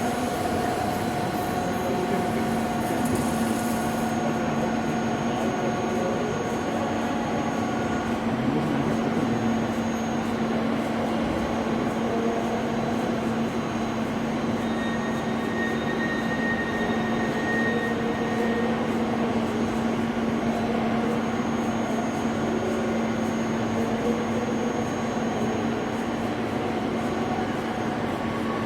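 Large CNC vertical turning lathe running, a steady mechanical hum with fainter whining tones above it.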